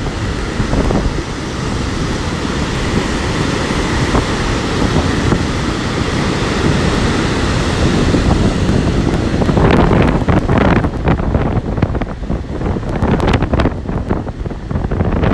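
Strong wind buffeting the microphone over the rumble of heavy storm surf. The buffeting grows harsher about two-thirds of the way through, with rapid crackling gusts.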